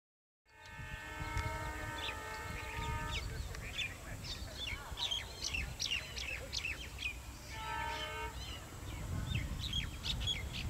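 Diesel train's horn sounding twice, a long blast of about two seconds and then a shorter one near the end, over a steady low rumble. Birds are chirping throughout.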